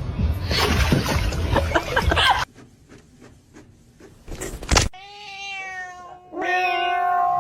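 A cat yowling in two long drawn-out calls, the second louder and held steady, starting about five seconds in. Before that, a loud noisy stretch cuts off suddenly about two and a half seconds in.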